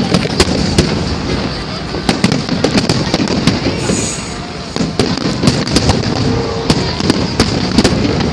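Aerial fireworks bursting: many sharp bangs and crackles in quick succession, thickest about two, five and seven to eight seconds in.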